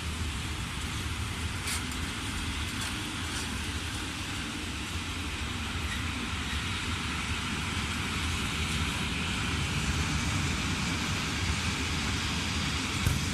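A train running with a steady rumble and hiss that slowly grows louder, with a sharp click near the end.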